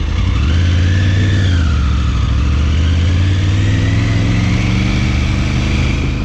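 Triumph Tiger 900 Rally Pro's inline-triple engine on its stock exhaust, revving up and dropping back in the first two seconds, then pulling with slowly rising revs.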